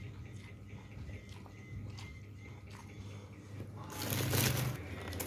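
Close-up eating sounds: small mouth clicks and soft chewing, then a loud crisp crunch about four seconds in as a kerupuk cracker is bitten.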